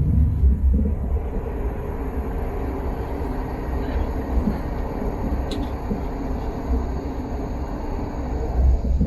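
Train running at speed: a steady low rumble of wheels on rails, swelling near the start and the end, with one sharp click about five and a half seconds in.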